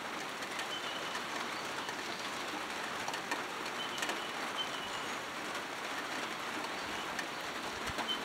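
Steady rain falling, with single drops ticking on wet surfaces, and a bird chirping faintly a few times.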